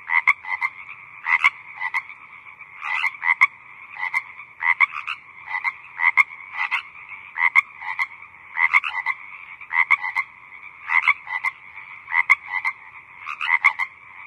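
Frogs croaking in a steady chorus, with louder single calls standing out about one to two times a second, often in short clusters.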